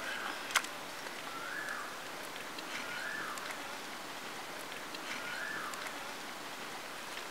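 A bird calling repeatedly over steady outdoor background hiss: a short whistle that rises then falls, four times about every second and a half. There is one sharp click about half a second in.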